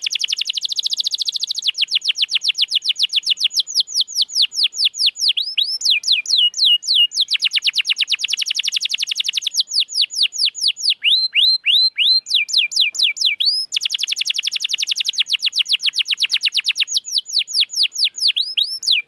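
Domestic canary singing a continuous string of rapid trills, each a fast run of the same high note repeated many times a second, switching to a new trill pattern every second or two. A canary lure song, used to stir a canary that has gone quiet into singing.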